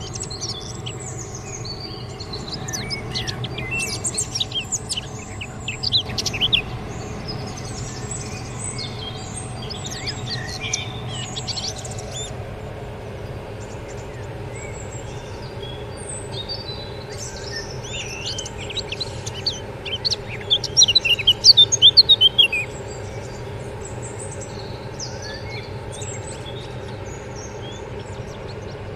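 Birds chirping in short twittering bursts, busiest about 4 to 6 seconds in and again around 20 to 22 seconds in, over a steady low hum.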